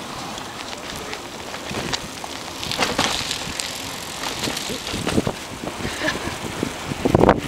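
Bicycle on the move: steady tyre and wind noise with frequent small clicks and rattles, and a few louder rattling bursts.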